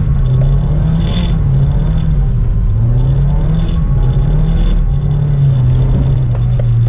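Nissan S15 Silvia's engine heard from inside the cabin while drifting, the revs rising and falling over and over. A few short hisses come through over it.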